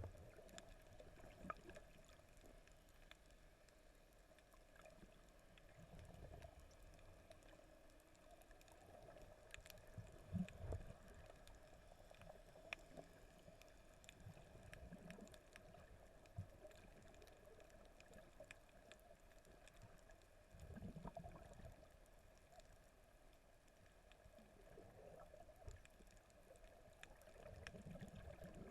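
Faint, muffled underwater sound of a snorkelling dive: low surges of water movement every few seconds over a steady dull hum, with scattered faint clicks.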